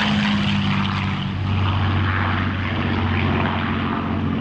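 Rolls-Royce Merlin V12 piston engines of a de Havilland Mosquito and an Avro Lancaster droning steadily as the two propeller warbirds pass together. The engine note sags a little in pitch during the first second or so, then holds.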